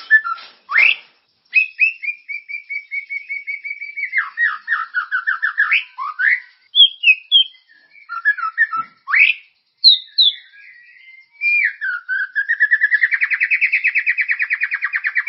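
Recorded songbird song played as a tutor track for white-rumped shamas: a string of varied whistled phrases and chips. A run of fast repeated notes comes early on and drops lower around 4 s in, and a longer, louder rapid trill starts near the end.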